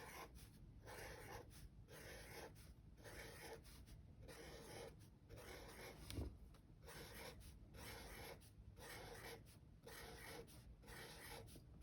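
Faint scratching of a pen drawing small circles on paper, one short stroke after another, about two a second.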